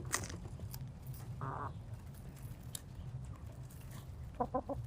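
Backyard chickens clucking softly: one short call about a second and a half in, then a quick run of clucks near the end.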